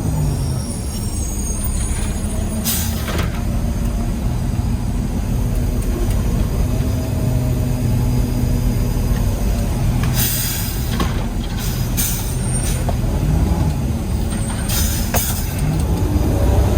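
Peterbilt 320 garbage truck engine running steadily in the cab, with several short hisses of compressed air: one about three seconds in, and a cluster from about ten to fifteen seconds in.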